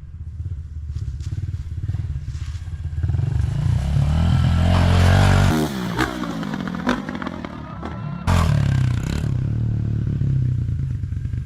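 Small 110cc four-stroke dirt bike engine running and revving, building to a peak about five seconds in and then dropping off suddenly, with a few sharp knocks after.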